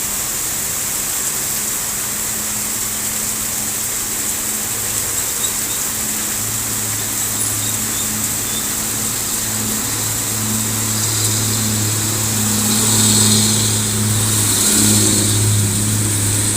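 Heavy truck's diesel engine labouring up a hill, growing louder from about six seconds in and loudest near the end, over a steady hiss.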